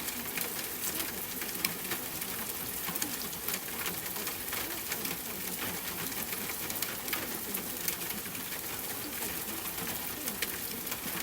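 Steady rain falling: an even hiss with many small drop ticks, and a faint wavering low murmur underneath.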